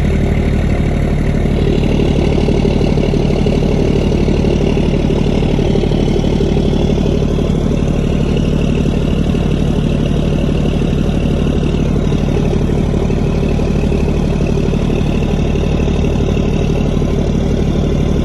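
Fishing boat's engine running steadily: a loud, even drone that holds one pitch throughout.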